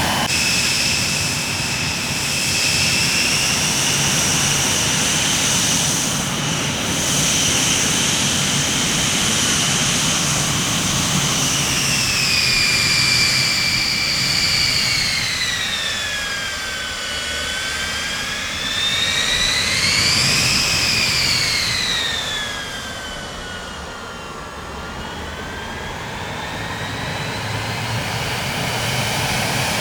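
Jet aircraft engines whining over a steady rumble. The high whine holds steady at first, then falls in pitch, rises again about two-thirds of the way through, and falls once more near the end.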